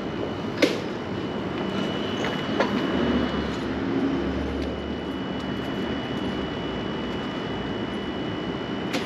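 Steady rumbling noise with a thin high whine running through it, a single sharp click about half a second in and a low rumble swelling in the middle.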